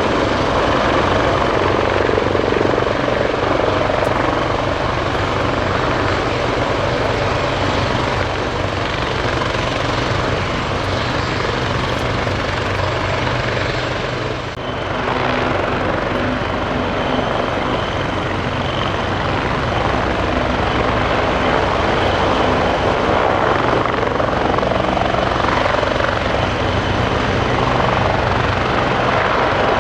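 Bell 430 twin-turboshaft helicopter running steadily close by: a continuous rotor beat and turbine noise, with a brief dip in level about halfway through.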